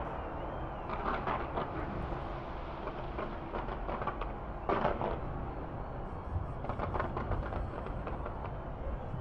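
Steady outdoor city noise with a few brief louder bursts, the biggest about halfway through.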